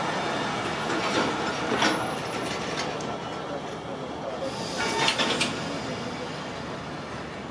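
Passenger train coaches rolling slowly past, a steady rolling noise broken by sharp clicks of the wheels over rail joints, loudest about five seconds in.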